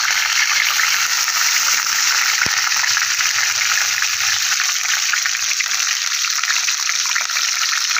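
Whole brinjals (small striped eggplants) sizzling steadily in hot oil as they fry, a dense crackling hiss.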